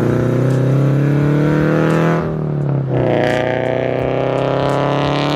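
Scion FR-S flat-four with unequal-length headers, a catless front pipe and a Tomei cat-back exhaust, loud under hard acceleration. The revs climb, drop at a gear change about two seconds in, then climb again.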